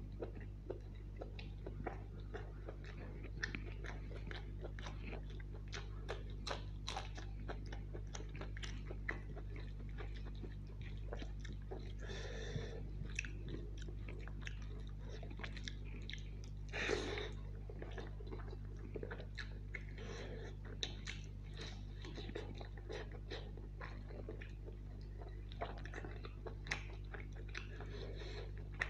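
Close-miked chewing and biting of chicken curry and biryani rice: many short wet mouth clicks and smacks, with a couple of louder wet bursts about twelve and seventeen seconds in, over a steady low hum.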